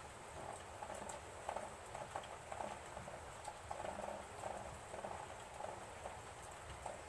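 Irregular light clicks and taps, several a second, over a faint steady hiss.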